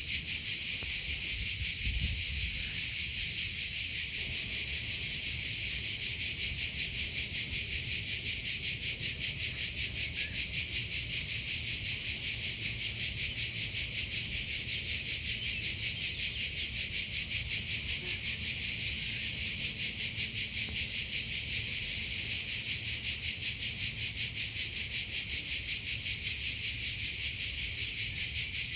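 Cricket chirping without pause: a high-pitched, rapidly pulsing trill that keeps an even rhythm throughout.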